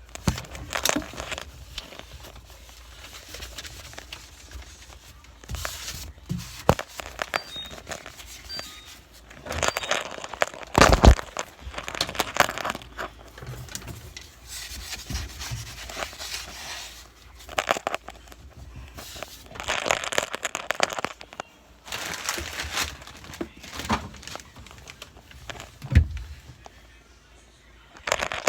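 Wiping and handling things in a refrigerator: irregular rubbing and crinkling with scattered knocks, and two heavier thuds, one about eleven seconds in and one a couple of seconds before the end.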